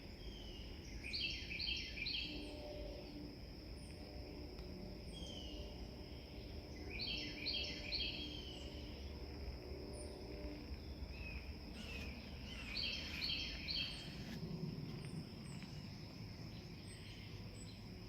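A songbird singing a phrase of three quick repeated notes, three times about six seconds apart, over a steady high insect drone. A faint low rumble underneath, the distant train.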